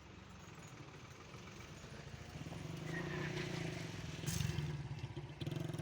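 A vehicle engine running with a fast, even low chug, growing louder from about halfway in as it comes closer. There is a brief sharp sound about three-quarters of the way through.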